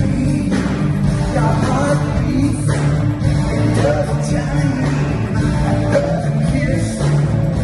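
Rock band playing with electric guitar and a singer.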